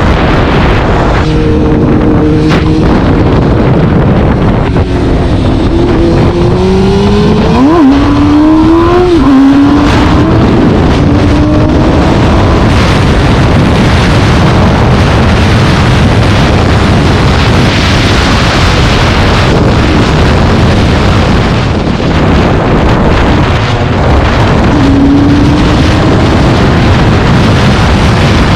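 A vehicle engine running while under way, with loud wind and road noise on the microphone. The engine's pitch climbs and then drops a couple of times about six to ten seconds in, and it rises briefly again near the end.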